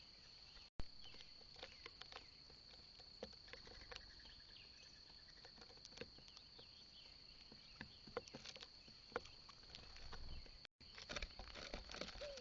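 Near silence with faint scattered taps and clicks, typical of birds pecking and hopping on a feeder platform, over a steady thin high-pitched whine.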